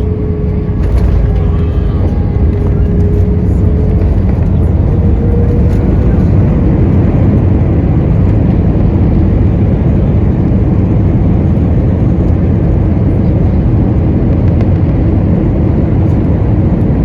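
Airliner cabin noise during landing: a loud, steady low rumble of engines and airflow heard from inside the cabin, getting a little louder about a second in.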